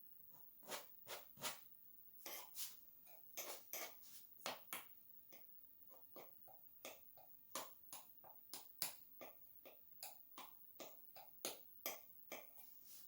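Paintbrush dabbing and stroking on a painting surface: short, irregular taps, about two a second.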